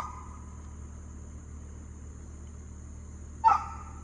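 A dog gives two short, sharp vocal sounds, one at the start and one about three and a half seconds in, over a steady low hum.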